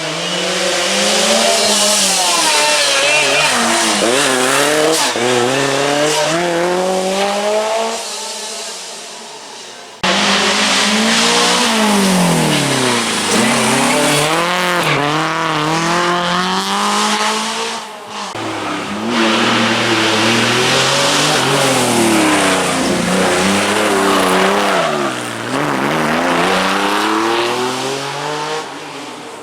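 Historic rally cars at full attack on a special stage, one after another. Each engine revs up hard, drops at the gear changes and under braking, then climbs again. The sound switches abruptly to a different car about ten and eighteen seconds in.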